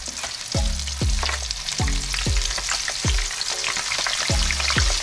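Breaded razor clam strips sizzling and crackling in hot vegetable oil in a frying pan, with a string of low thumps, roughly two a second.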